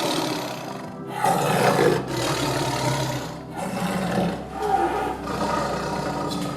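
An animal roaring, in several calls about a second long with short breaks between them.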